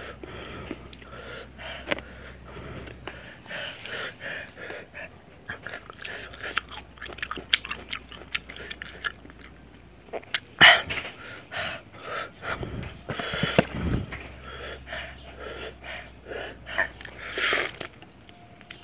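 Close-miked chewing and wet mouth sounds of a person eating slices of ginger in chili salt, with clicks of the lips and tongue and occasional louder breaths and slurps. Near the end, the sucking of a lime wedge.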